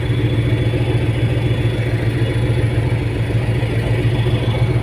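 Steady, loud drone of the fast ferry's diesel engines, a constant low hum with no change in speed.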